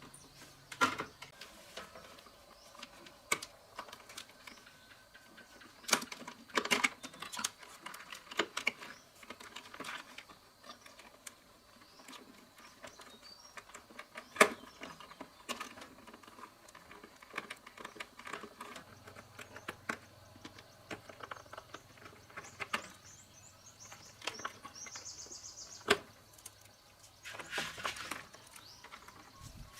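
Irregular clicks, taps and knocks of parts and tools being handled during hand repair work, scattered with pauses, with one sharper knock about halfway through and a brief high chirping squeak near the end.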